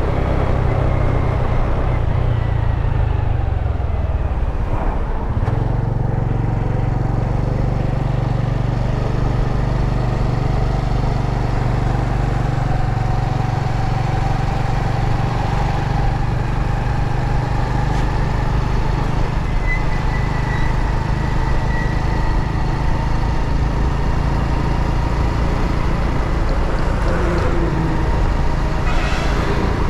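Motorbike engine running under way, a steady low rumble that dips briefly about five seconds in before picking up again.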